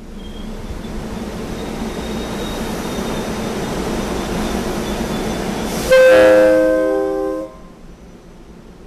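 Rolling rumble of a SEPTA regional rail train passing close by, building steadily. About six seconds in, a train horn sounds one loud chord blast of about a second and a half, then cuts off sharply.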